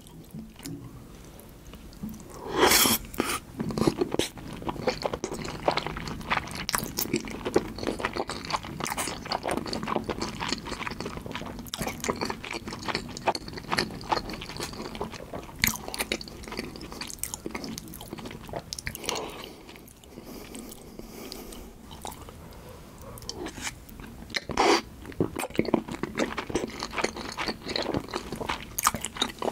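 Close-miked chewing of a mouthful of salmon sushi with tartar sauce: continuous wet, sticky mouth sounds and small clicks, with a few louder moments about three seconds in and again near the end.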